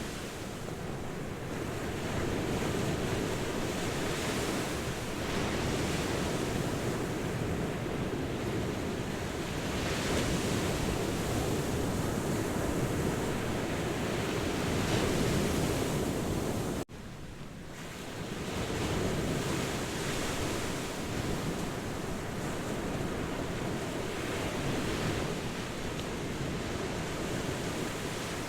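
Ocean waves breaking and washing on a shore: a continuous surf noise with slow swells in loudness. About two-thirds of the way through the sound cuts out abruptly for a moment, then fades back in, like an edit or loop point.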